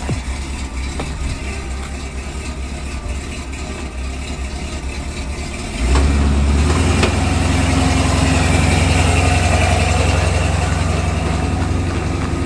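Pickup truck engine running steadily, then getting clearly louder and heavier about halfway through, as if pulling away or revving.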